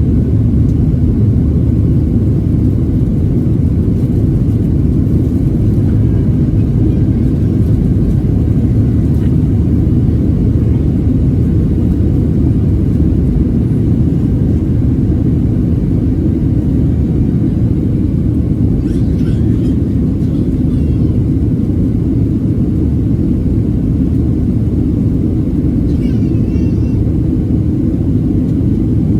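Steady low rumble inside the cabin of a Boeing 737-700 in flight or on its takeoff run: the CFM56 engines and rushing air, with no change in level.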